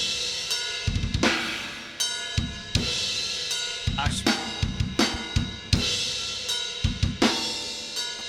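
Recorded metal drum kit playing back on a stereo drum bus through a dbx 160-style VCA compressor plug-in. Fast bass-drum hits run under sharp snare strikes and ringing cymbals.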